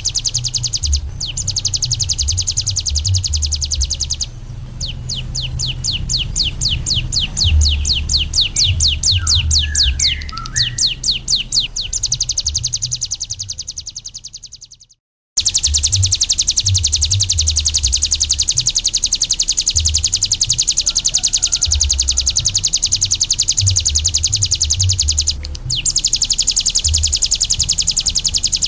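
Ciblek gunung (a prinia) singing a long, loud, high-pitched trill. A stretch of rapid separate notes, about five a second, runs in the first half. The song breaks off briefly midway, then resumes as a steady trill.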